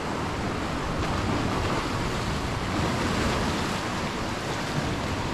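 Rushing sea surf, with wind on the microphone; the wash swells a little around the middle and then eases.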